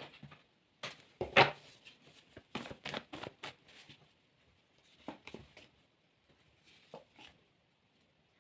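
Tarot cards being handled on a table: a string of short, sharp rustles, slaps and taps in irregular clusters as the cards are shuffled and laid out. The loudest slap comes about a second and a half in.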